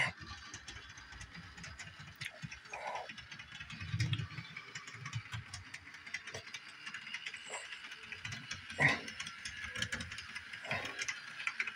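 Bachmann doodlebug model railcar running slowly on its track, its motor whirring with steady clicking from the gears or wheels, which the owner suspects is the 18-inch-radius curve not agreeing with it. Two louder low bumps come about four and nine seconds in.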